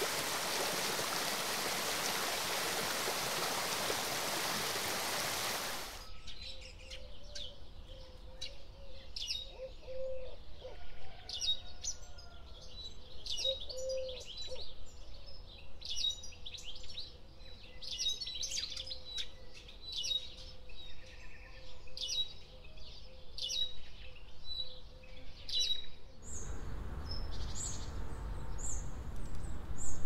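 A steady rush of running water, which cuts off about six seconds in to tropical birds calling: short, sharp, high chirps repeated every second or so. Near the end it changes again to higher-pitched calls over a low rumble.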